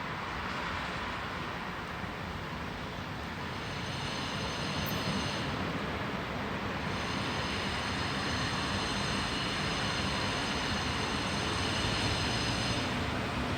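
Freight train of coal wagons hauled by a Škoda class 183 electric locomotive and a 6Dg diesel locomotive, running steadily. From about four seconds in, a set of high-pitched tones rises over the rumble; it breaks off briefly and fades near the end.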